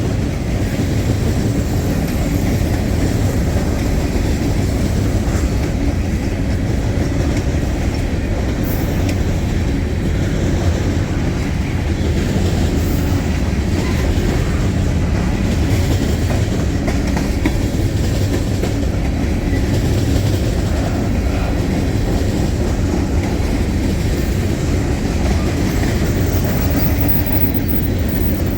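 Freight train's cars rolling past at close range: a steady, loud rumble of steel wheels on the rails, with a light clickety-clack from the rail joints.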